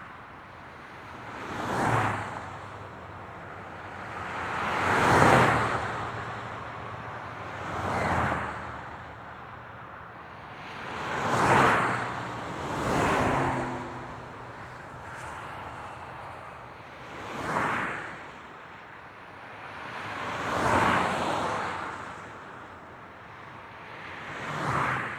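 Road traffic: cars pass one at a time, about eight in all, each a swelling whoosh of tyre and engine noise that fades away again, over a steady background hiss.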